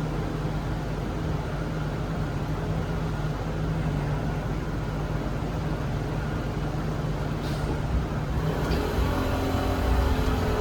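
Cabin noise of a Zhongtong hybrid range-extender bus under way: a steady low hum over road noise. Near the end the low end grows louder and a higher whine made of several steady tones joins in.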